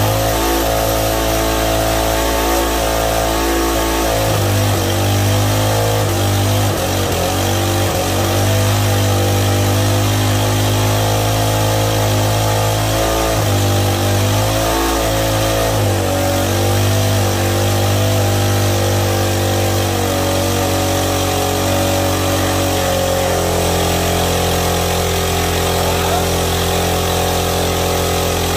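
Briggs & Stratton 5.5 hp single-cylinder four-stroke lawn-mower engine running flat out with its governor pinned wide open and no oil in it, being run to destruction. Its pitch wavers a few times in the first half, then holds steady.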